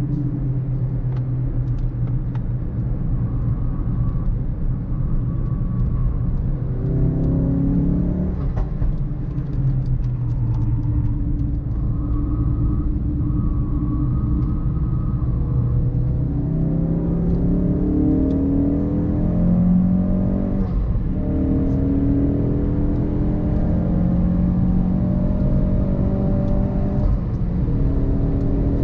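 Ford Focus RS Mk3's turbocharged 2.3-litre four-cylinder engine pulling hard on track, its pitch climbing and then dropping at each upshift, several times.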